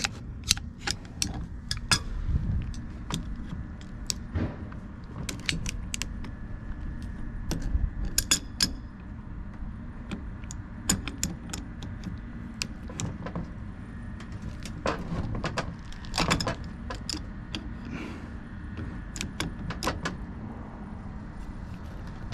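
Irregular metallic clinks and knocks of hand tools on a Copeland semi-hermetic compressor, some coming in quick clusters. The sound comes from working a stubborn bolt while the crankshaft is jammed so it cannot turn.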